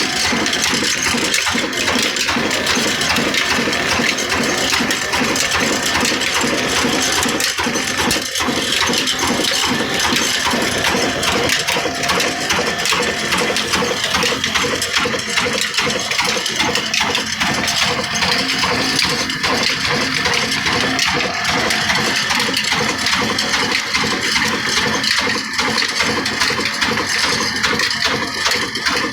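Old black desi diesel oil engine running steadily, driving an atta chakki (stone flour mill), with a dense, even clatter from the mill and its drive.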